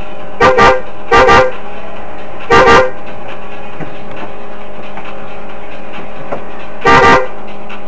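Car horn honking in short blasts: three quick honks in the first three seconds, then another honk near the end. A steady hum runs underneath.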